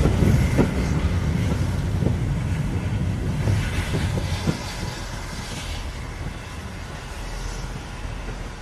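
Steam-hauled train of coaches rolling away, a low rumble that fades steadily, with a few clicks of wheels over rail joints in the first half. Wind buffets the microphone.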